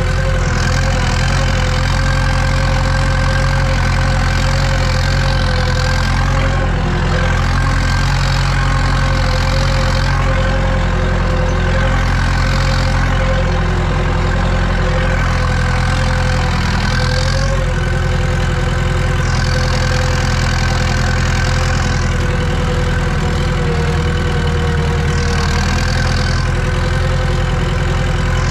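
Tractor diesel engine running steadily under the load of a cultivator, heard from inside the cab, with a steady whine over the engine and a hiss that swells and fades every few seconds.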